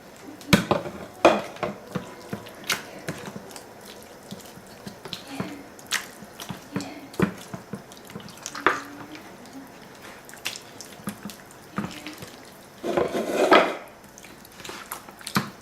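Wet kitchen handling: hands rubbing a blended lemon-and-chili marinade into a raw chicken, with scattered wet squelches, clicks and taps throughout. A denser burst of wet noise lasting under a second comes about 13 seconds in.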